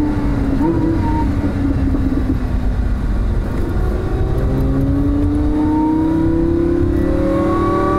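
Supercharged Lamborghini Huracán's V10 engine heard from inside the cabin, running at light load as the car slows, then from about three and a half seconds in accelerating, its note rising steadily.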